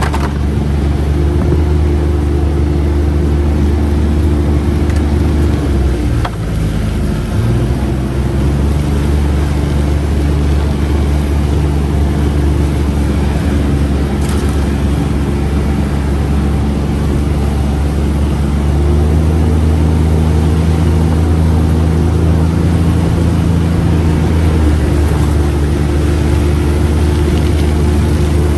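UTV engine running under way. The revs drop briefly and climb again a few seconds in, and the engine grows louder about two-thirds of the way through as the throttle opens.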